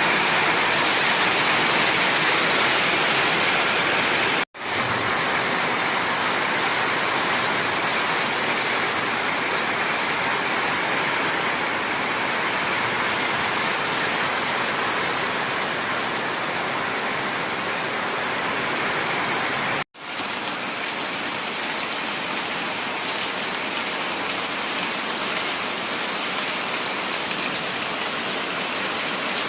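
Steady heavy rain falling, an even hiss, with two brief drop-outs to silence about 4.5 seconds and 20 seconds in where the recording is cut.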